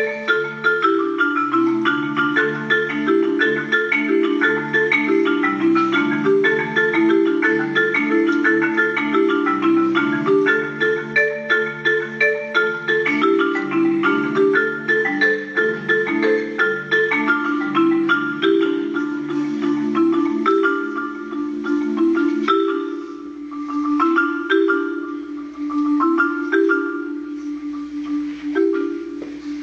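Solo marimba played with mallets in a fast, even stream of struck notes over a moving bass line. About two-thirds of the way through, the low notes drop out, leaving sparser, separated higher notes.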